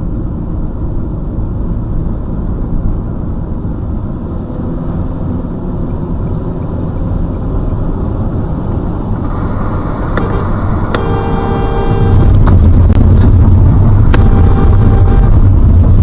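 Steady road and engine rumble heard from inside a moving car. A car horn sounds twice, once for just over a second about eleven seconds in and again briefly near the end. The low rumble gets much louder from about twelve seconds in.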